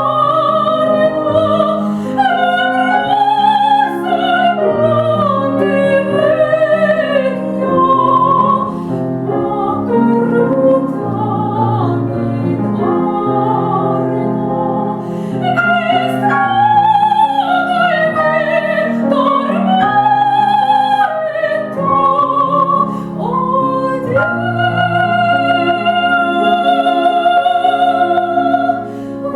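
Classical soprano voice singing an operatic piece with grand piano accompaniment, holding long notes with vibrato over the piano chords.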